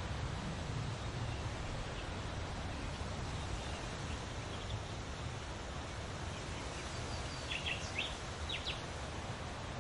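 Outdoor ambience: a steady, even background hiss of environmental noise, with a few short, sharp bird chirps about three-quarters of the way through and fainter ones earlier.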